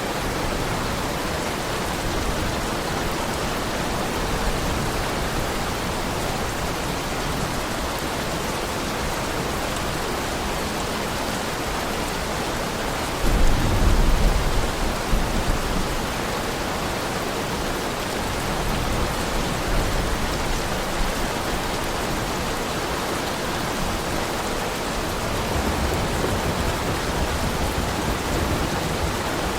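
Heavy rain falling steadily, with a brief low rumble of thunder a little before halfway.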